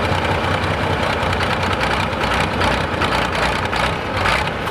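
Hot stock diesel pulling tractor's engine running steadily with a dense rumble.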